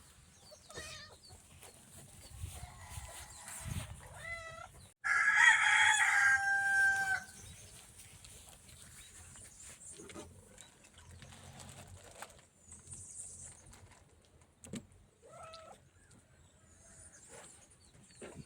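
A rooster crowing once, loud and sudden, about five seconds in, holding a steady note for about two seconds. A few shorter, fainter animal calls come before and after it.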